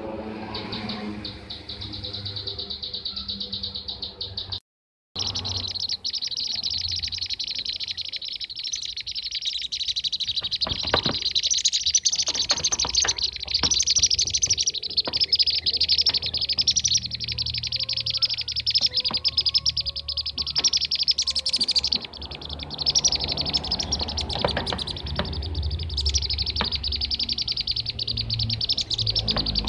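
Bee-eaters (kirik-kirik) calling in a dense, unbroken run of rapid chirping trills, played as a lure call, with a brief total cut-out about five seconds in.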